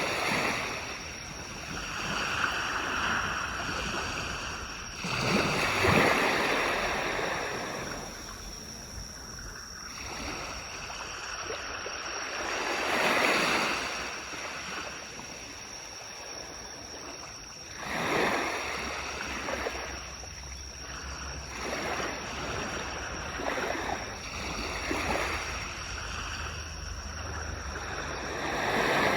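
Waves washing onto a beach, swelling and fading in surges every four to seven seconds.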